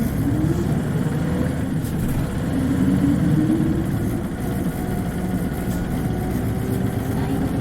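Isuzu Cubic KC-LV380N city bus's diesel engine heard from inside the bus while driving. It rises in pitch twice, in the first second and again between about two and three and a half seconds in, then runs steadily.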